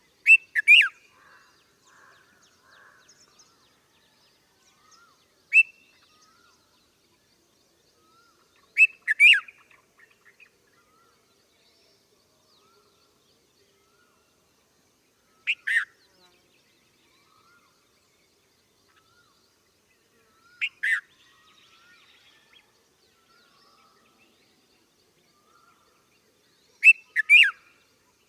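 Bulbuls calling: six short, loud bursts of chirps spaced several seconds apart, with faint, softer twittering between them.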